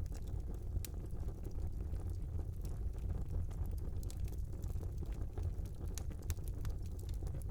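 Fire in a small fireplace burning with a steady low rumble, with frequent sharp crackles and pops at irregular intervals.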